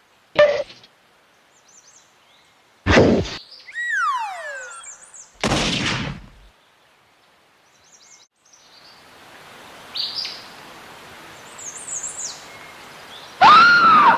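Cartoon sound effects: a sharp hit, then a falling whistle gliding down in pitch, then a crash. After that comes a steady outdoor ambience with short bird chirps, and a loud call near the end that rises and then falls in pitch.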